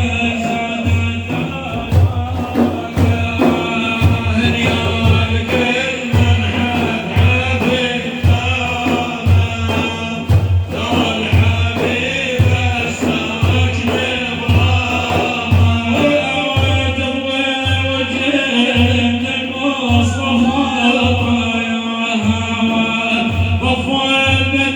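Madih, an Islamic praise song for the Prophet Muhammad: a male voice chants the melody over a steady low drum beat.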